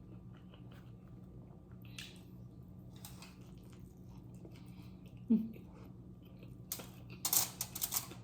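Close-miked chewing, with a short hum of the mouth about five seconds in and a run of crisp crunches near the end, likely tortilla chips being bitten and chewed.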